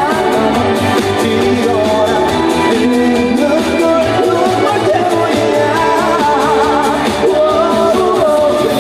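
Live trot band music played loud through a PA, with a steady beat, a repeating bass line and a wavering sung melody over it.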